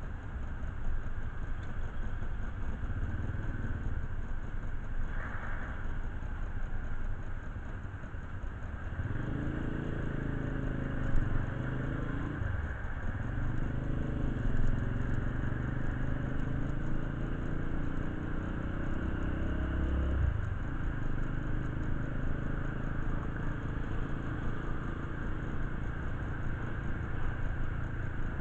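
A motorcycle engine running, with a steadier, stronger pitched note from about nine seconds to about twenty seconds in.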